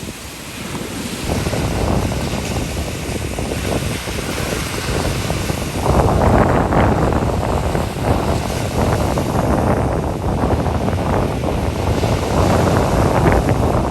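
Ocean surf washing ashore, with wind buffeting the microphone. The rush swells about a second in and grows louder again about six seconds in.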